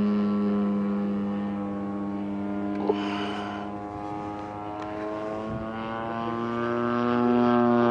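Engine and propeller of a large-scale RC Super Decathlon model plane droning in flight at a steady pitch. It fades away toward the middle and grows louder again near the end, with one sharp click about three seconds in.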